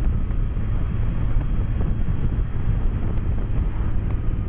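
BMW K1200S inline-four engine running steadily while riding, mixed with wind rush, heard through a microphone inside the rider's helmet.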